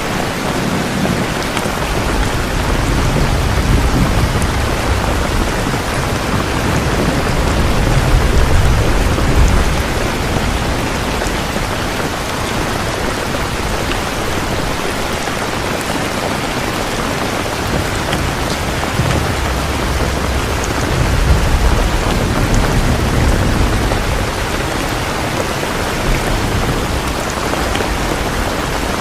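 Steady rain falling, with low rumbles of thunder swelling twice, the first a few seconds in and the second about two-thirds of the way through.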